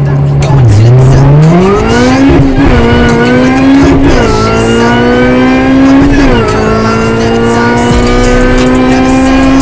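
Car engine accelerating hard through the gears: a steady note that climbs quickly in pitch, then keeps rising slowly and drops back sharply at two upshifts, about four and six seconds in.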